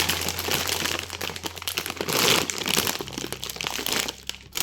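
Plastic packaging crinkling and rustling as it is handled, in a dense crackle that is loudest a little past two seconds in.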